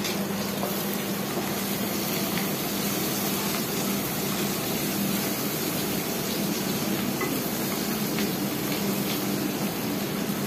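Chopped onions and green chillies frying in oil in an aluminium kadai, sizzling steadily, while a wooden spatula stirs them with faint scrapes and knocks against the pan.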